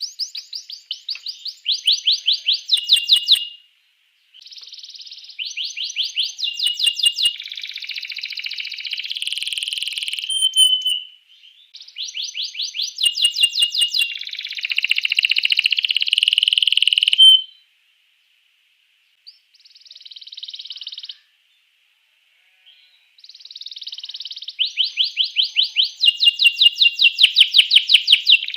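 Domestic canary singing a loud song of rapid repeated trills and rolls. The song comes in phrases broken by short pauses, with a longer pause a little past the middle.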